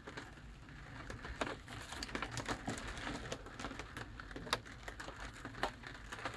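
Irregular taps and drips of rain, a few sharp ticks a second, over a low steady rumble.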